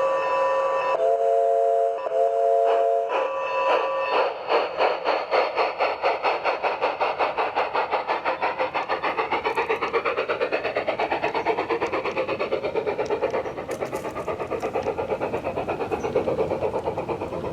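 A garden-scale model steam locomotive's onboard sound unit sounding several chime-whistle blasts at different pitches, then settling into steady, rapid chuffing as the train gets under way.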